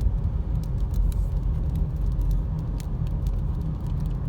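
Steady low rumble of a car driving, heard from inside the cabin, with scattered faint ticks over it.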